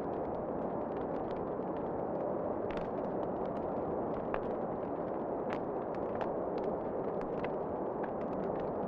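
Wood fire crackling in a fireplace: irregular sharp pops and snaps over a steady low rushing background.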